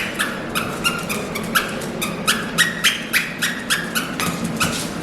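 Dog chewing a squeaky toy, with rapid short squeaks at about three a second.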